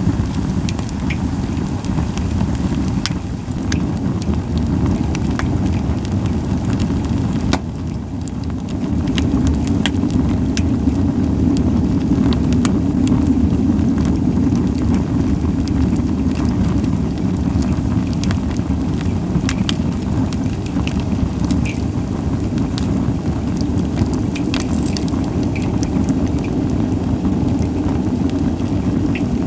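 Pine campfire crackling with frequent small pops, over a steady low rumble that grows louder about eight seconds in.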